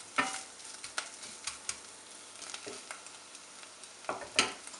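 Grated onion and ginger paste sizzling in hot oil in a pot while a wooden spatula stirs and scrapes through it. Scattered sharp scrapes and clicks over a faint steady sizzle, the loudest scrape near the end.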